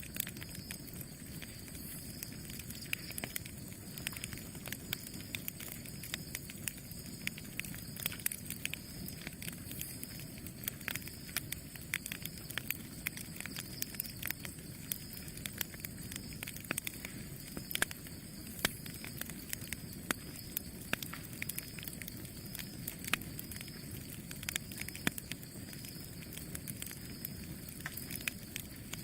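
Campfire burning: a steady low rush of flames with frequent irregular sharp pops and crackles from the burning wood.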